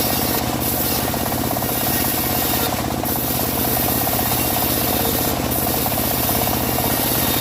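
Homemade engine-driven bandsaw mill running steadily while ripping dry teak, its motor note even and unchanging, with a few short bursts of hiss.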